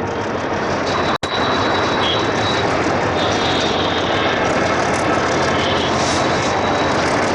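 Freight train rolling past, a loud steady rush of wheels and wagons on the rails, with a faint high-pitched whine coming and going. The sound drops out for an instant about a second in.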